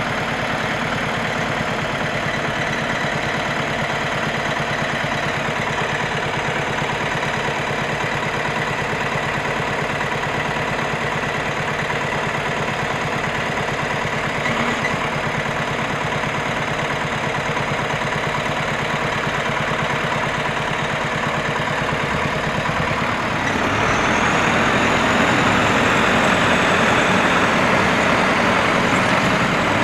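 KAMAZ logging truck's diesel engine running steadily, then louder and harder about three-quarters of the way through, with a faint rising whine.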